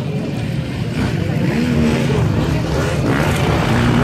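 Off-road motorcycle engines running and revving, the pitch rising and falling.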